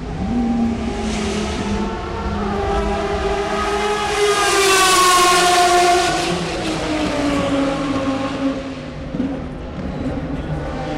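DTM racing car engine at full speed passing close by. It grows loudest about five seconds in, and its pitch falls away as it goes past, over the steady drone of other engines.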